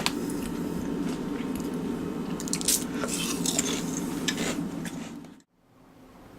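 Salt and vinegar potato chips being crunched and chewed close up, with a few sharp crackles over a steady low hum. The sound cuts off suddenly near the end.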